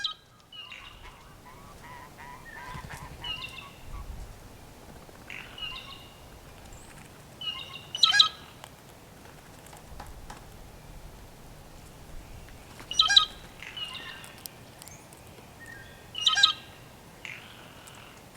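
Blue jays calling: a string of short, harsh calls, the loudest three coming about 8, 13 and 16 seconds in, with softer calls between.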